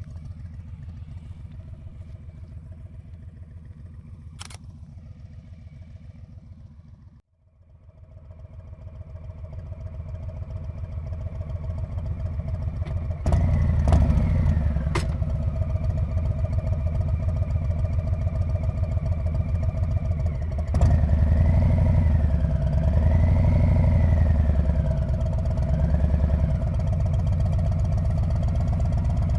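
Harley-Davidson Street Bob's V-twin engine and exhaust running on the move, with a steady low pulse. About seven seconds in the sound briefly drops almost out, then swells back gradually, and it steps louder twice later on, with the pitch rising and falling over the last few seconds; a few sharp clicks are scattered through it.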